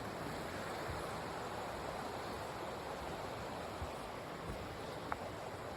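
Steady rush of a river flowing over rocks and small falls, an even unbroken wash of water.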